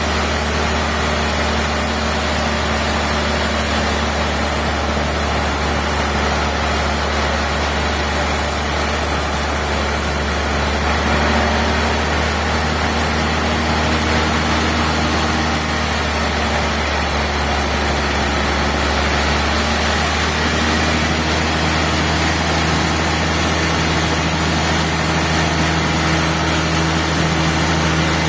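Sawmill machinery running steadily: an even mechanical drone over a strong low hum. Its pitch shifts slightly about twenty seconds in.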